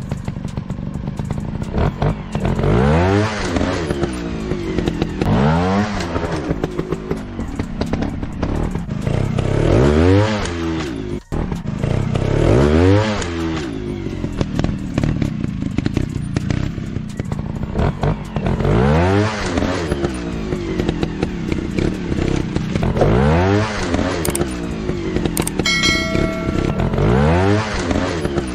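Motorcycle engine revving up and dropping back again and again, a rise and fall every few seconds over a steady low running sound, with some clatter.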